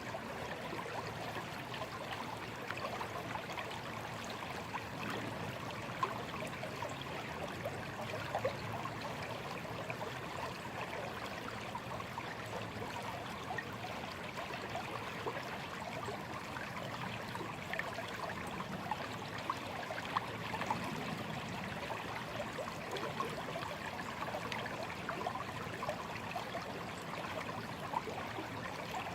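A small stream running over stones, a steady babble of trickling water with small splashes and gurgles.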